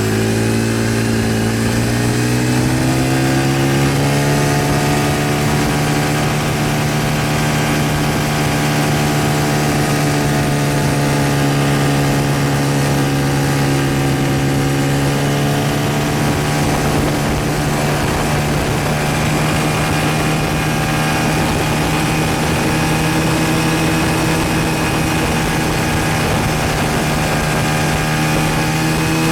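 Quad bike engine running under way, its pitch rising over the first few seconds as it picks up speed, then holding steady.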